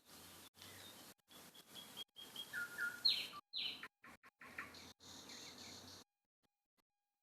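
Bird calls: short chirps and a few quick falling notes, the loudest about three seconds in, over a faint hiss that keeps cutting in and out. The sound stops about six seconds in.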